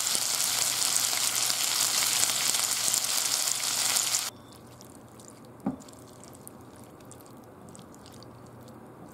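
Starch-coated chicken breast pieces sizzling in oil in a frying pan. The sizzle cuts off suddenly about four seconds in, and what follows is much quieter: chopsticks stirring the chicken with chopped garlic chive sauce in a glass bowl, with faint clicks and one short knock.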